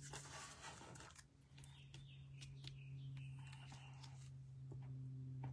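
Quiet handling of paper and card: a brief rustle in the first second, then a few light clicks and taps, over a steady low electrical hum.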